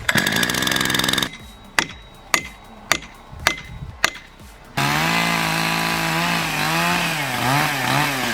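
Chainsaw revving for about a second, then five sharp knocks about half a second apart, then the chainsaw running at full throttle, its pitch dipping and wavering near the end as it loads in the cut.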